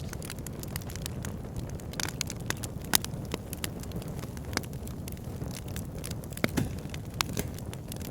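Wood fire burning in a log burner: irregular crackles and pops from the logs, one sharp pop about three seconds in, over a steady low rumble of the flames.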